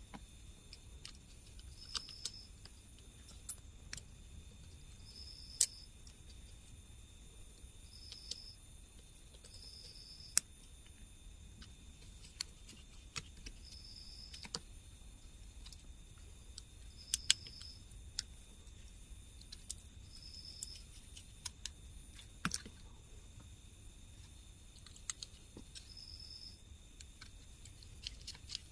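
Faint, irregular clicks and taps of small plastic parts being handled: wireless earbuds and their charging case being set up on charge. A cricket chirps briefly every few seconds.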